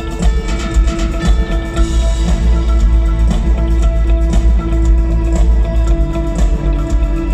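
Live rock music with electric guitar and drums, played with a symphony orchestra, and a heavy, boomy low end.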